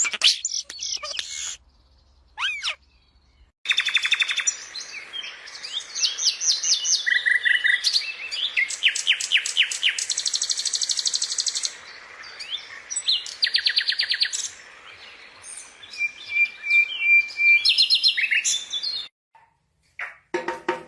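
Songbirds singing and calling in a string of varied songs: fast trills, rapidly repeated high notes and short whistled phrases. There is a pause of about two seconds near the start, and the singing stops shortly before the end.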